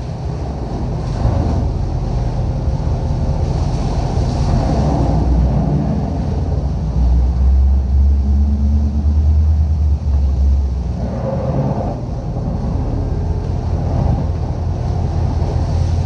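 Vessel's engine running with a steady low rumble, with wind and water noise over it.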